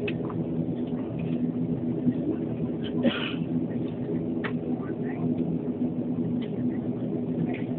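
An Antonov An-140's twin turboprop engines and propellers droning steadily at low power, heard inside the passenger cabin as an even hum of several low tones. A brief hiss cuts through about three seconds in.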